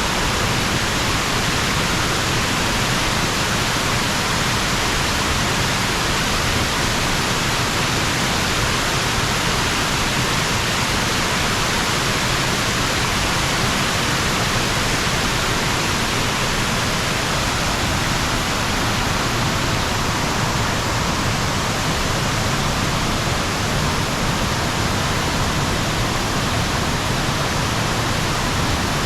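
Falling water of a waterfall, a steady rushing noise with no let-up.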